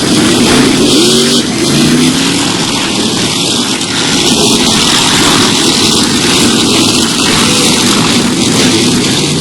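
Monster truck engine running loud and revving, its pitch gliding up and down in the first couple of seconds.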